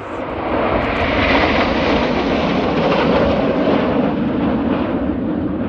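Formation of BAE Hawk T1 jets passing by: a loud, even jet roar that swells over about the first second, peaks, and slowly eases off.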